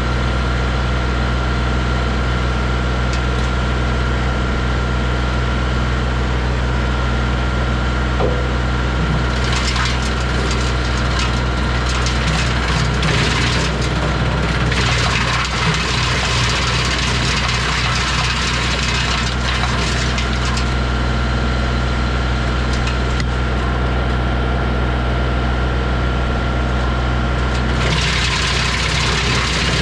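Kubota L3301 tractor's three-cylinder diesel engine running steadily. Stretches of harsher, hissier noise come in about ten seconds in, briefly around twenty seconds, and again near the end.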